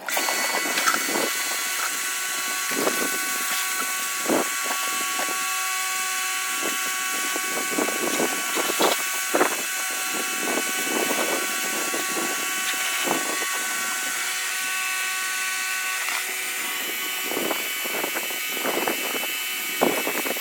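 Car-wash machinery running: a steady motor whine with several pitched tones over a hiss, with irregular short spatters and knocks throughout. It starts suddenly, and the tones shift about sixteen seconds in.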